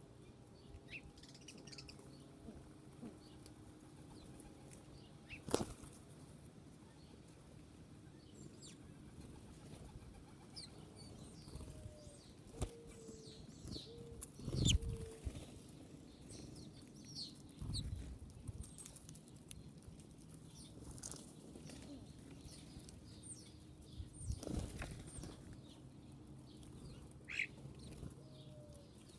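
Birds' wings flapping as they fly in and out, with a few sharp knocks, the loudest about halfway through, and scattered short high chirps.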